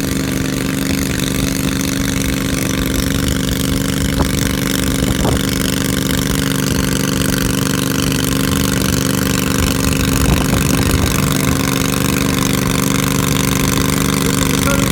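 Small garden tractor engine running steadily at a constant speed, with no change in pitch.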